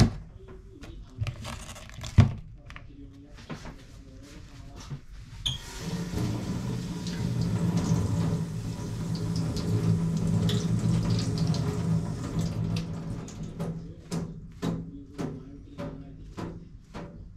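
Kitchen tap turned on, water running into the sink for about eight seconds and then turned off, with short knocks and clicks of kitchenware before and after.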